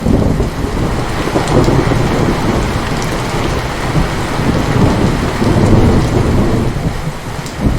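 Heavy rain falling with a long rolling thunder rumble that starts suddenly and swells and fades over several seconds.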